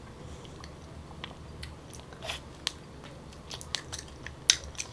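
Close-miked mukbang eating of soft, sticky Musang King durian flesh: wet chewing with scattered mouth clicks and lip smacks, the loudest about four and a half seconds in.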